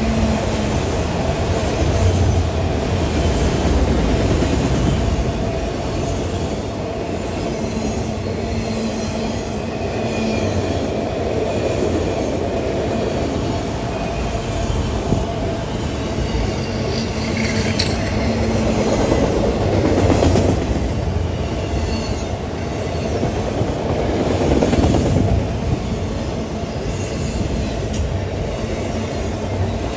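Freight train of enclosed autorack cars rolling past close by: a steady rumble of steel wheels on the rails, with a faint wheel squeal at times.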